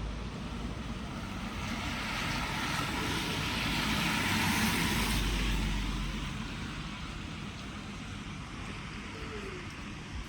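A car passing on a wet road: its tyre hiss and engine rumble swell to a peak about four to five seconds in, then fade away.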